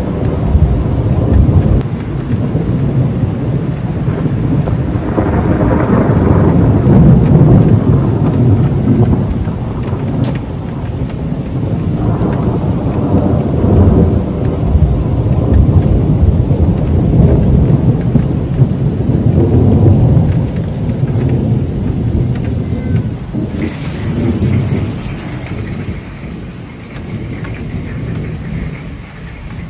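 Thunder rolling in long low rumbles that swell and fade several times, over steady rain. About three-quarters of the way through the sound changes abruptly and the rumble becomes quieter.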